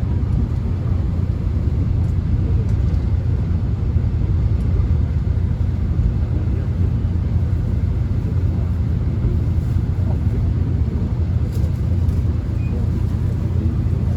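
Steady low rumble inside a moving subway train as it runs along the track, with a few faint clicks.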